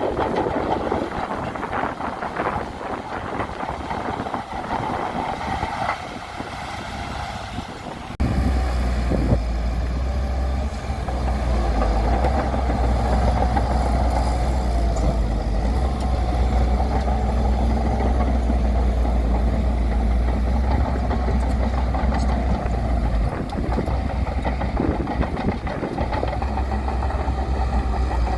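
Heavy earthmoving machinery running, with diesel engine noise and scattered clanks. About eight seconds in, the sound jumps to a louder, deep, steady engine rumble that holds to the end.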